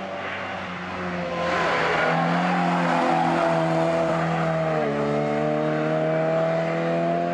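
Classic Mini's four-cylinder engine revving hard as it accelerates up a hill-climb road, growing louder as it approaches. About five seconds in the pitch drops sharply as it shifts up a gear, then rises again.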